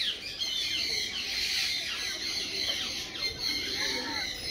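Birds calling: many short, overlapping high chirps and squawks, with a lower call near the end.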